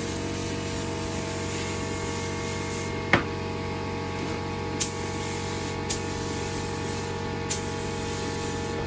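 Paint spray gun spraying kandy paint in a steady hiss, with four sharp clicks during the spray.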